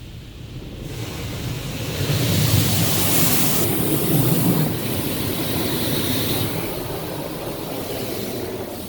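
High-pressure water jets of a touchless car wash spraying against the vehicle, a dense hiss that swells about two seconds in and eases a little after about five seconds.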